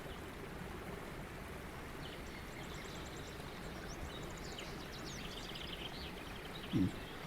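Background birdsong recording: several small birds chirping and trilling softly over a steady outdoor hiss, the calls coming in from about two seconds in. A brief soft low sound near the end.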